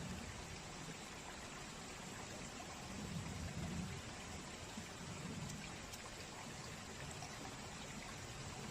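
Steady rush of a river with the light crackle of a campfire, a few faint ticks standing out. A low rumble swells twice in the middle.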